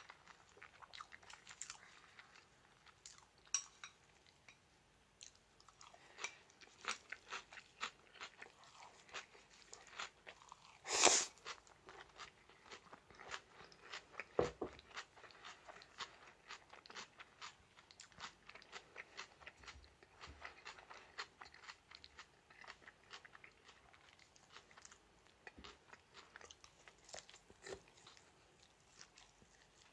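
Close-up chewing and crunching of food as a person eats fried chicken and green salad, with many small crunches throughout. There is one louder sharp noise about eleven seconds in and a dull knock a few seconds later.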